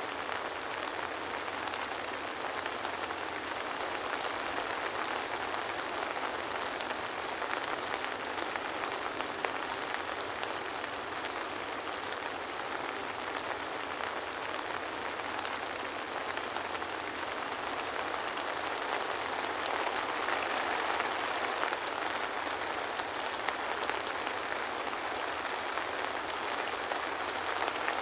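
Steady soft rain, a dense even patter of drops falling on a surface, with no thunder.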